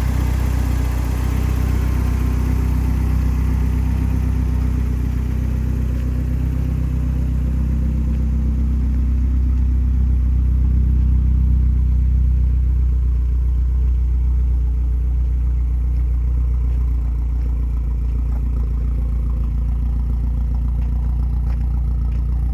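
1986 Toyota pickup's engine idling steadily shortly after a cold start, with an even low hum and no revving.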